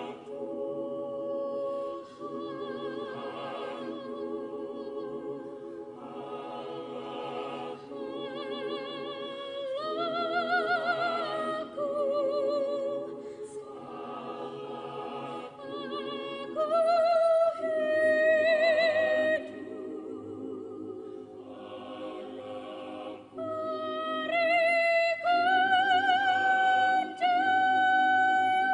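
Choir singing, with sustained chords in the lower voices and a high voice holding long notes with vibrato above them, climbing higher in the second half.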